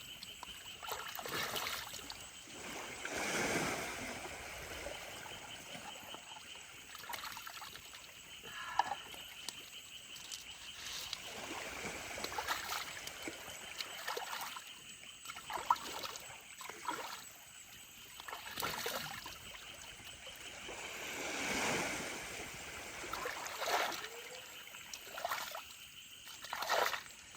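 Stream water trickling, with irregular splashes as someone scoops and splashes water to wash, and a few sharp splashes or knocks.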